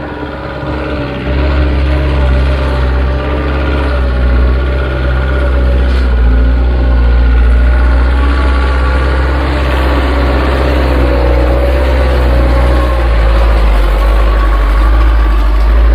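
Heavy construction machine's diesel engine running: a loud low rumble that gets louder about a second in, with engine whine that wavers slightly in pitch.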